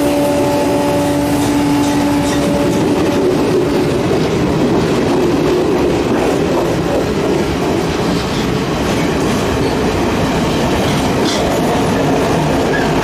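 Loco-hauled train of S11 DMU coaches rolling past at low speed, a steady rumble of wheels clacking over rail joints. At first there is also a steady hum from the locomotive, which fades after about three seconds.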